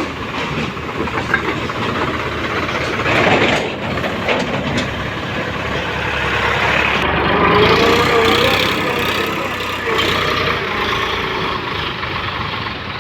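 Diesel tractor engine running steadily, with people's voices mixed in.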